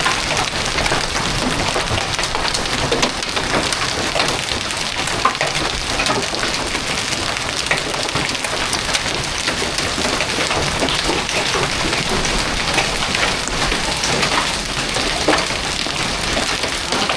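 Heavy hail pelting down, a dense steady clatter of many small hits with sharper individual impacts scattered through it.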